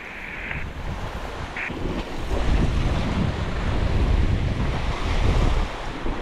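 Strong wind buffeting the microphone over the wash of sea waves, a gusty low rumble that grows louder about two seconds in. A brief high steady tone sounds at the very start.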